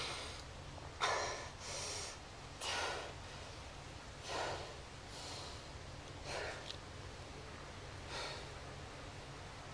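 A man breathing heavily through nose and mouth: about eight short, noisy breaths and gasps, close together at first, then spacing out and fading.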